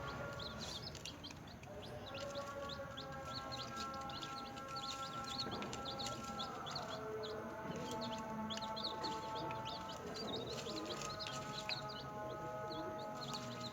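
Newly hatched chicks peeping, many short high chirps in quick, continuous succession, over background music with long held notes.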